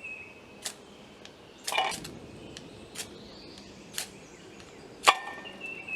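Mora knife spine struck down a ferrocerium rod, five short sharp scrapes about a second apart, the loudest near the end: repeated tries to throw sparks onto tinder before it catches.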